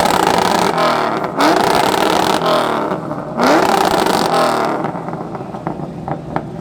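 Car engine with a loud aftermarket exhaust being revved hard three times: each rev climbs quickly and is held high before dropping. Near the end the engine falls back toward idle with a few sharp pops from the exhaust.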